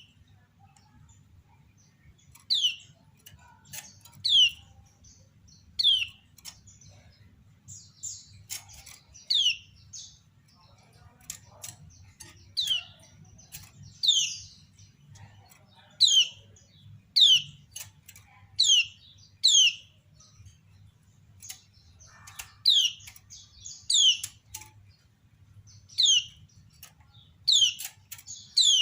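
Female lemon-bellied white-eye (kecial kuning) giving its 'ciak' call: short, sharply falling high chirps repeated every second or two, some in quick pairs. It is the female call used as a lure to set males calling.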